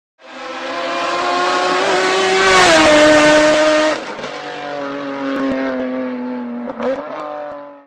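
Car engine at high revs passing at speed, its pitch dropping as it goes by. It then holds a steady high note with a brief dip in pitch near the end, before cutting off suddenly.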